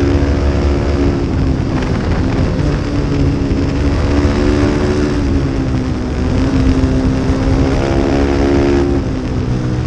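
A small-displacement racing motorcycle engine running hard at speed over a dense low rush of wind. Its pitch sags about a second and a half in, climbs again, and drops near the end as the throttle comes off.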